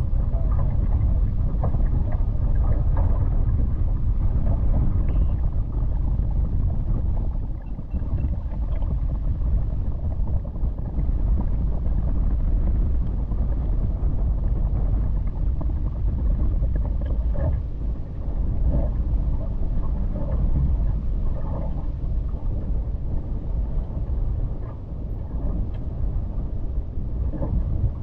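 Gusty wind buffeting the microphone, a deep rumble that eases off briefly a few times.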